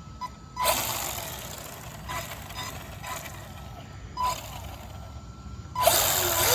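Radio-controlled rally car driven in bursts of throttle: a hissing rush each time it speeds up, several times, with a whine that falls in pitch as it slows near the end.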